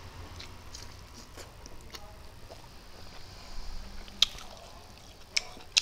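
A person chewing a mouthful of rice and fried egg with soft wet mouth sounds, and a few sharp clicks, the loudest about four seconds in and two more near the end.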